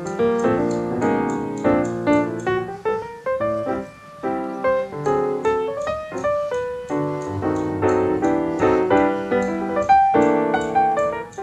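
Background music: a piano tune playing quick notes with a steady rhythm.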